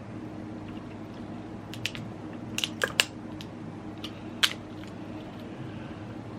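A person eating seafood close to the microphone: a few sharp clicks and cracks, clustered around the middle, over a faint steady hum.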